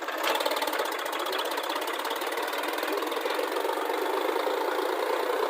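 Heavy diesel engine running at high revs, a fast even clatter that picks up sharply just after the start and holds steady.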